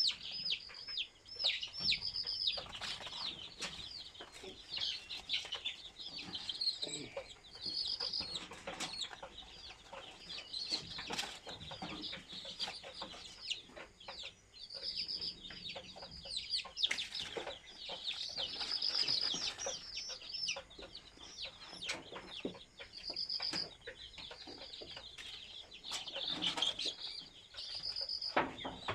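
A flock of desi chicks peeping continuously in high, rapid chirps, with scattered flutters and short knocks among them.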